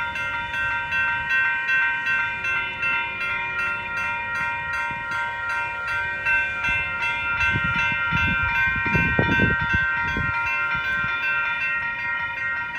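Railroad grade-crossing bell ringing steadily in fast, even strokes. A low rumble swells up about two-thirds of the way through.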